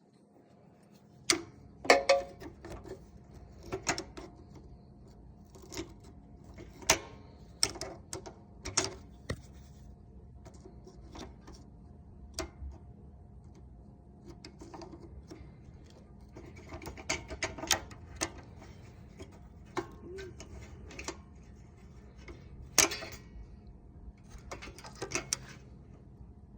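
Irregular clicks and light clanks of hand tools and small parts being handled, spaced a second or more apart with a louder knock near the end, over a faint steady hum.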